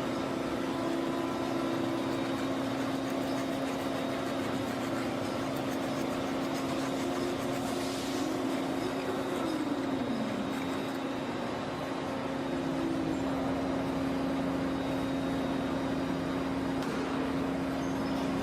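Steady machine hum with a constant tone; a second, slightly higher tone slides down in pitch about halfway through and fades.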